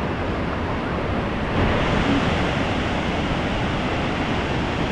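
Steady rushing of a waterfall, a little louder from about a second and a half in.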